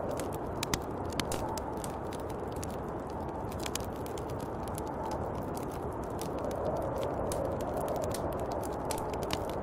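Snowstorm wind blowing steadily, swelling and easing in gusts, with many scattered sharp ticks and crackles over it.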